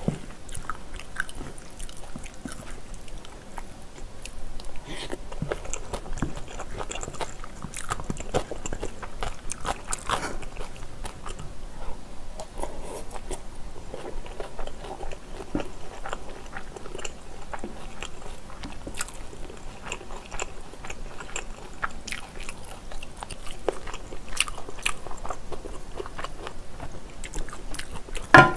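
Close-miked eating of spicy bulgogi with glass noodles: steady chewing and biting mouth noises, with short clicks of a metal spoon and one louder bite near the end.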